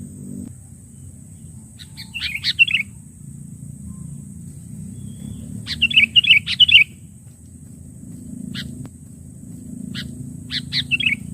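Sooty-headed bulbul calling: four separate bursts of quick, bubbling notes, the longest about a second.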